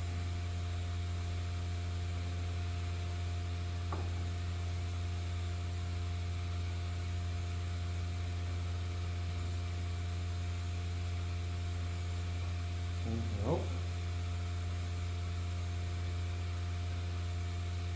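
Steady low electrical hum with several fainter higher tones above it, unchanging throughout; a faint single click about four seconds in.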